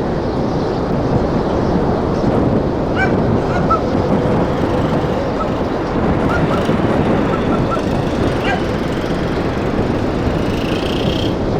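Strong wind blowing in a loud, steady rush, with a few short high chirps about three seconds in and again around the middle.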